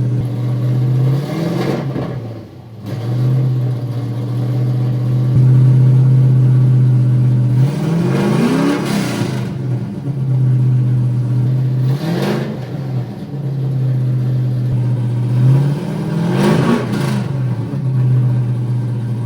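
Freshly built drift car engine, newly started, running at a steady idle and revved four times, the pitch climbing and falling back to idle each time.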